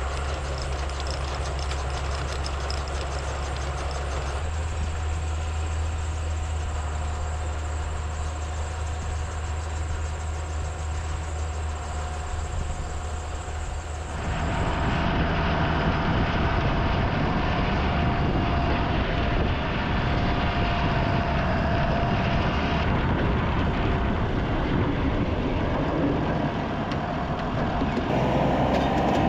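Diesel tractor and silage-harvest machinery running steadily, with a deep, even engine note. About 14 s in the sound changes abruptly to a louder, harsher machine noise with a steady whine.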